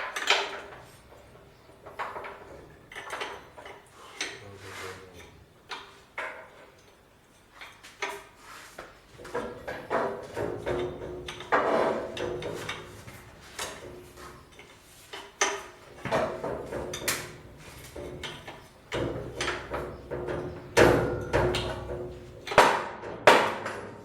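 Irregular metal clanks and knocks, some with a short metallic ring, from tools and heavy steel parts being handled and fitted during repair work on an MTZ-82 tractor.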